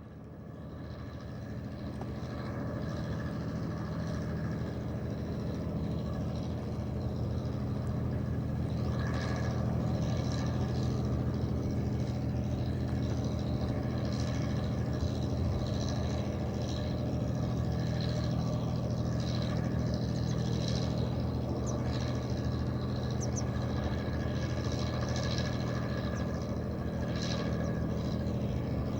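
An engine idling steadily with a low, even hum, fading in over the first couple of seconds. Brief higher-pitched sounds are scattered over it.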